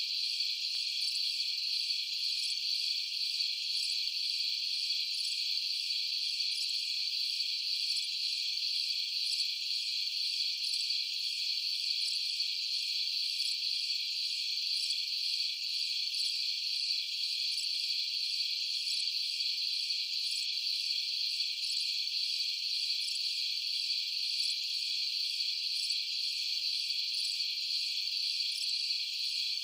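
A steady night chorus of crickets chirping, high-pitched and unbroken, with no other sound.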